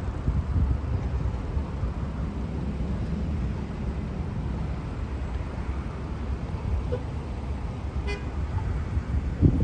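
Road traffic: a steady low rumble of passing motor vehicles, with a louder low bump just before the end.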